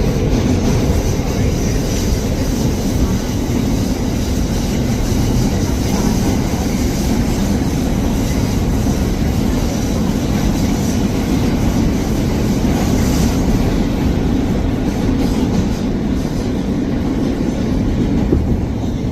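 Inside a moving New York City subway car: the steady rumble and rattle of the train running on the rails between stations.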